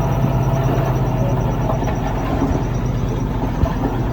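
Diesel engine of heavy earthmoving equipment running steadily, with a constant low hum.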